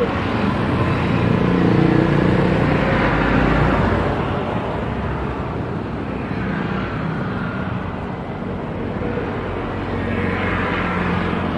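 Jet airliner engines running with a steady rushing noise that swells about two seconds in and then eases to a lower steady level.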